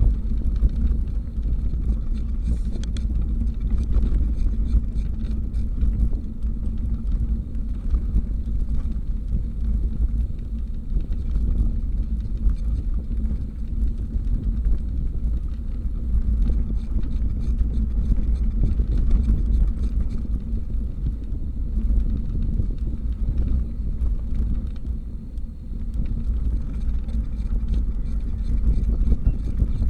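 A steady low rumble of riding a bicycle: wind buffeting the microphone, with road and tyre noise underneath.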